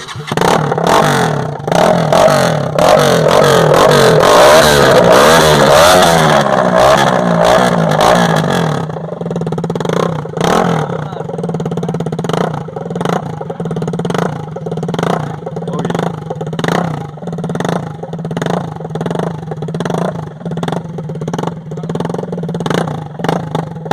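KTM motorcycle engine running with its exhaust removed, very loud and open. It is revved for roughly the first nine seconds, then drops to an uneven idle with sharp pops coming about twice a second.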